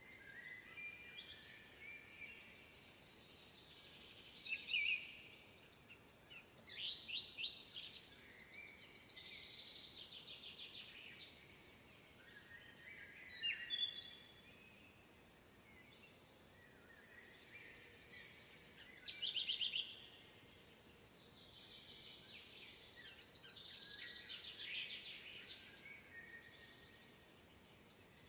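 Several songbirds singing in a spring woodland chorus, with overlapping phrases and chirps. Louder quick trills stand out a few times, about 5, 7, 13 and 19 seconds in, over a faint background hiss.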